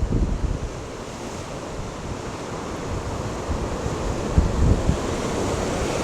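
Lake Erie waves washing in, a steady rush of surf, with wind buffeting the microphone in low gusts about four and a half seconds in.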